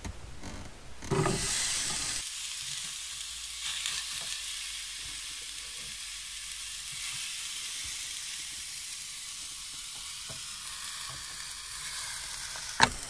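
Chopped red bell pepper sizzling in a non-stick camping sandwich toaster over a gas burner, a steady even hiss. About a second in there is a brief louder clatter of handling before the hiss settles.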